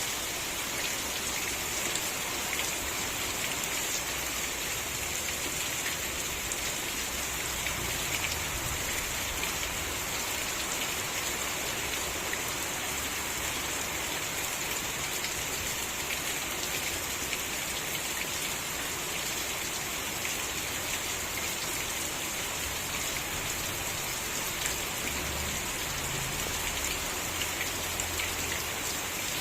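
Steady rain falling, many fine drops pattering on surfaces in an even, unbroken hiss.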